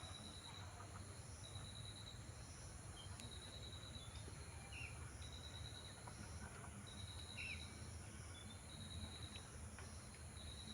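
Faint outdoor ambience: an insect, cricket-like, giving short pulsed trills about once a second over a steady high hiss, with a few short bird chirps.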